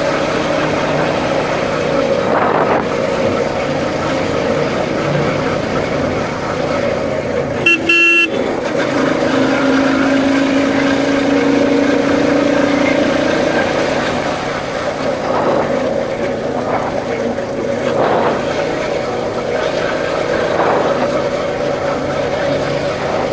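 Royal Enfield Bullet's single-cylinder engine running steadily on the move, with a short loud horn honk about eight seconds in, followed by a lower steady tone for about four seconds.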